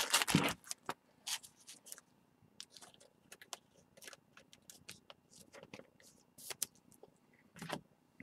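Trading cards being handled and flipped through by hand: faint, scattered clicks and slides of card stock. They are a little louder just after the start and again near the end.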